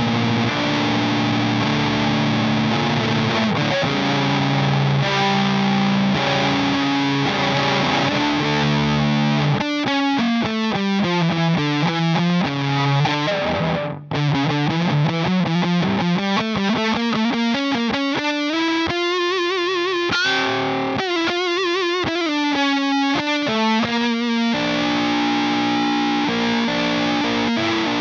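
Electric guitar through an Emmergy FX Flaming Cake Fuzz pedal, playing heavily fuzzed chords. About ten seconds in it switches to a single-note lead with slides and bends, breaking off briefly midway, then goes back to chords near the end.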